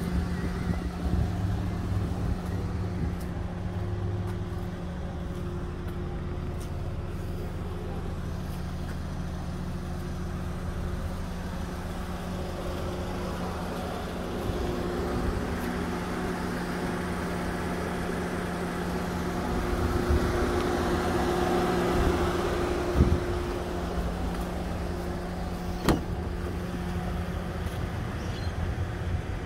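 Steady hum of an idling vehicle engine, with a swell of wider noise partway through and a sharp click near the end.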